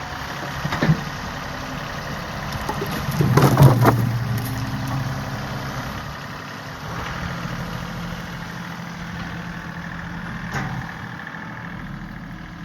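John Deere 3038E compact tractor's three-cylinder diesel idling steadily, with a louder surge about three and a half seconds in and a couple of short clicks.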